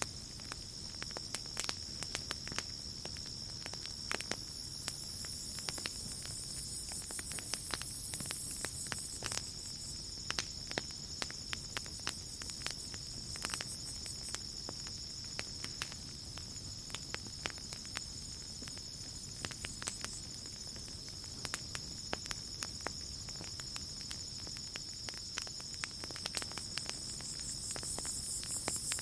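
Campfire crackling, with irregular sharp pops and snaps over a low steady rush of flame. Crickets trill steadily in one continuous high tone, and a higher insect buzz swells in and fades out twice.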